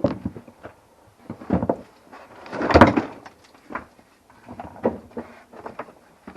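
Firewood logs dropping through a log-bagging machine into a bag: a run of separate wooden knocks and clatters, the loudest and longest about three seconds in.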